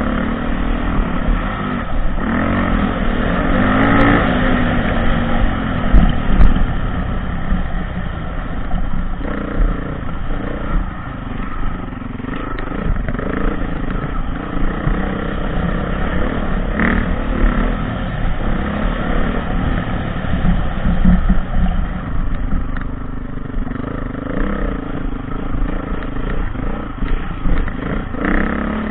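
Off-road dirt bike engine being ridden, its revs rising and falling continuously as the throttle is worked, with a few short knocks and clatters along the way.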